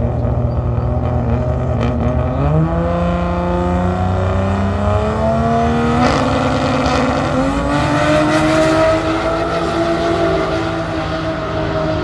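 Drag-racing car's engine accelerating down the strip, its note climbing in pitch through most of the run and levelling off near the end.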